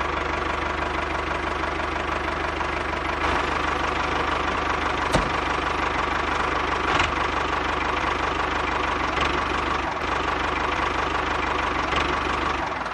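Engine running steadily with a fast, even knock, with a couple of brief sharp clicks in the middle; it cuts in and out abruptly.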